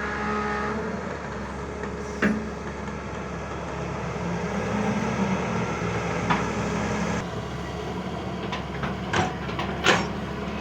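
Diesel engine of heavy farm or construction machinery running steadily, with a few sharp knocks; the loudest knock comes near the end.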